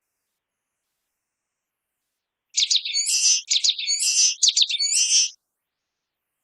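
Common waxbill singing: a quick run of high chirping notes lasting about three seconds, starting about two and a half seconds in.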